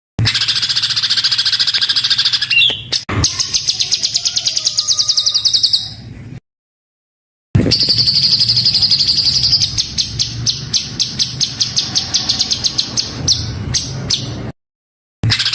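Songbird singing rough, tightly packed 'tembakan' (shot) phrases: long runs of fast, high, repeated notes. The song cuts to silence twice, about six seconds in and again near the end.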